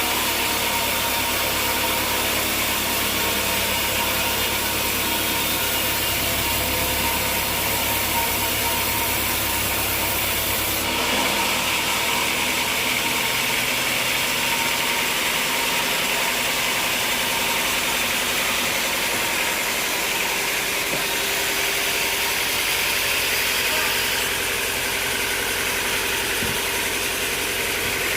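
Sawmill machinery running with a steady engine-like hum. The sound changes about eleven seconds in, when the deepest part of the hum drops away.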